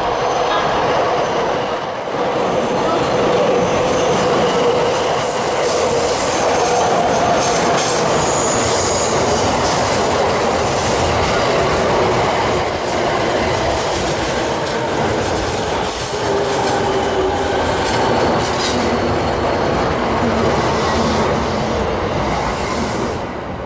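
JR East E217 series electric commuter train pulling in and braking to a stop at a platform. Its wheels rumble and clatter on the rails, with squealing tones that slowly fall in pitch as it slows, and the sound eases off near the end.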